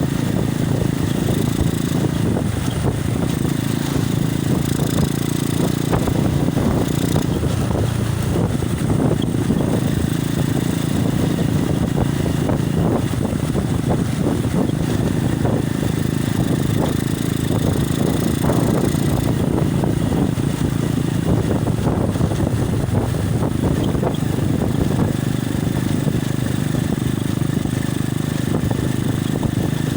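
Motorcycle engine running steadily on the move, under loud wind rumble on a phone's microphone.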